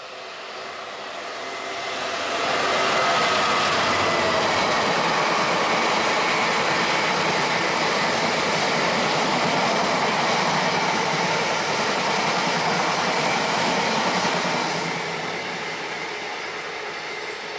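A train approaching and running past close by: the rumble swells over the first few seconds, stays loud for about twelve seconds, then eases off near the end.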